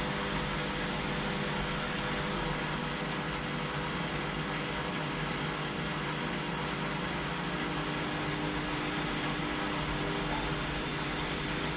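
Washing machine running with a steady, even hum.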